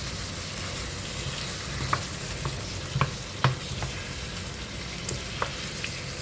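Food sizzling as it fries in a pan, stirred and turned with a utensil that scrapes and knocks against the pan a handful of times, the loudest knock about three and a half seconds in.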